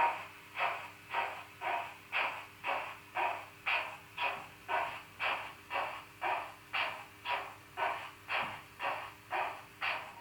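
Sound-decoder steam exhaust of an H0 model BR 44 three-cylinder locomotive, played through the model's small speaker. Even chuffs come at a steady pace of about two a second, with a faint steady hum beneath.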